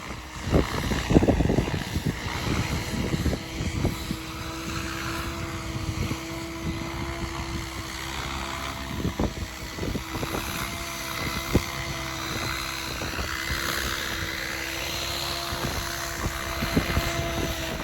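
Radio-controlled helicopter (MIU TB60) rotor head running at a steady, even pitch during 3D flying, with a fainter whine that rises and falls above it. Strong wind buffets the microphone in gusts during the first few seconds. The rotor pitch sags slightly near the end.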